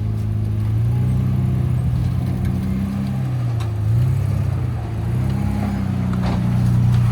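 A four-wheel-drive vehicle's engine running, its revs rising and falling slowly, with a few light knocks.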